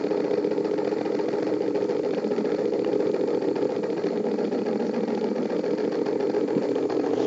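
Small battery-powered electric motor running steadily, spinning a homemade cardboard device, with an even hum.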